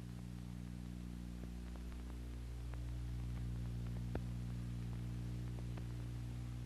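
Steady low electrical hum on the soundtrack, with a few faint scattered clicks.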